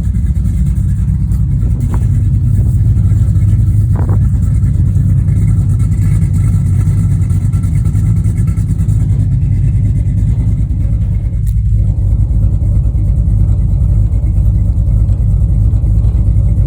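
1981 GMC Sierra 1500's small-block V8 running steadily through long-tube headers. The engine is a 350 bored .060 over to about 360 cubic inches, with a mild cam.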